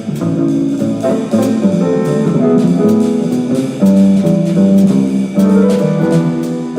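Live jazz combo playing a tune: piano, bass and drums, with a cymbal struck regularly.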